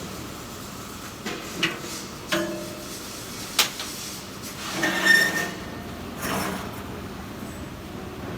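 Several short metallic knocks and clinks over a steady background hiss, with a louder scraping swell about five seconds in that carries a faint ring.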